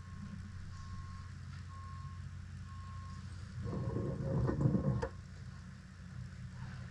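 Vehicle reversing alarm beeping, about three beeps every two seconds, over a steady low truck engine hum. The beeping stops about three seconds in, and a louder rumbling burst with a tone follows for about a second and a half, ending in a sharp click.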